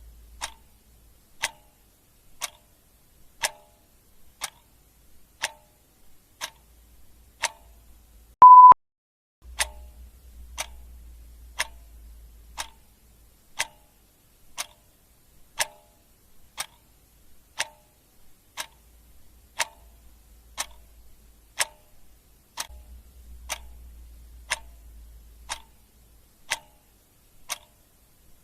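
Clock ticking steadily about once a second, alternating a louder tick with a softer tock. About eight seconds in, one short, loud beep at a single steady pitch cuts across the ticking.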